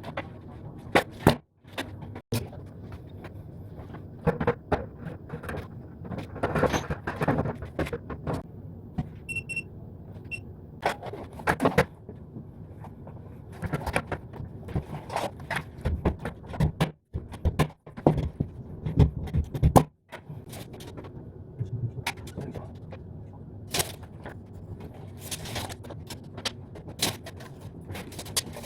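Irregular knocks, thuds and scrapes of carpentry work: timber and boards being handled and set in place.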